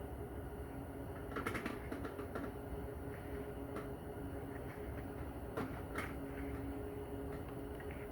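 Scattered light clicks and knocks of tools and metal parts being handled, about six in all, over a steady low hum.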